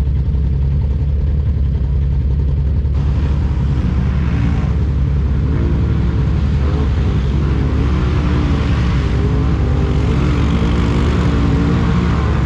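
ATV engine running continuously, its revs rising and falling from about halfway through.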